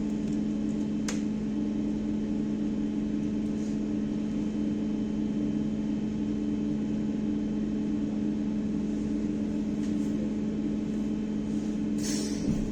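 Cabin of a BKM-321 trolleybus running between stops: a steady electrical hum on two low notes over road rumble, with a single click about a second in and a short hiss near the end.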